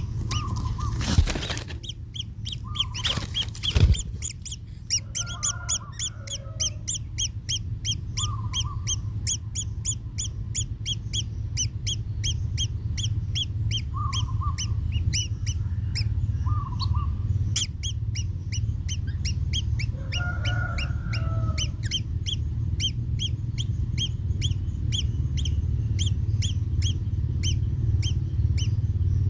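Kingfisher nestlings calling in a rapid, steady run of short high chirps, about four a second, over a low rumble. A few lower honking calls come in now and then, and two loud bumps sound in the first four seconds.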